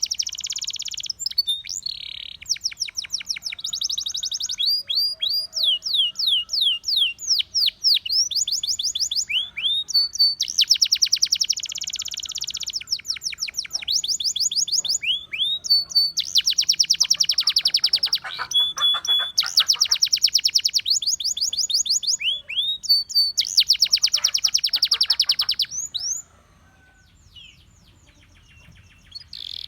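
Russian singing canary, a male, singing a long run of fast trills and rolls, high-pitched, one phrase straight after another. It falls quiet about 26 seconds in.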